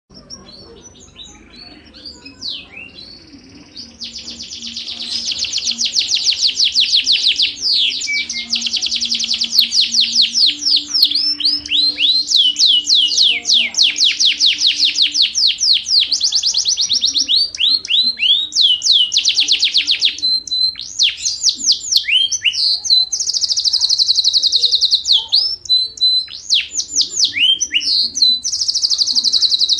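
Yorkshire canary singing a long, unbroken song of fast trills and rolls made of rapid downward-sweeping whistled notes. It starts softly and becomes loud about four seconds in.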